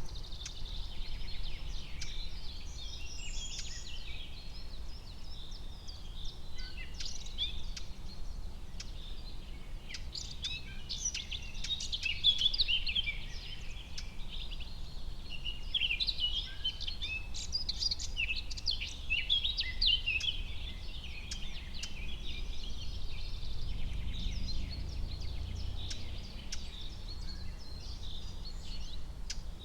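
Forest ambience: many small songbirds chirping and twittering at once, busiest in the middle, over a steady low rumble.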